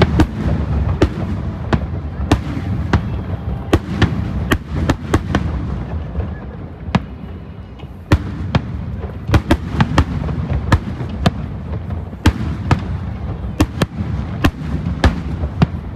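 Aerial firework shells bursting in a continuous display: many sharp bangs at irregular intervals, several a second at times, over a steady low rumble of echoing explosions.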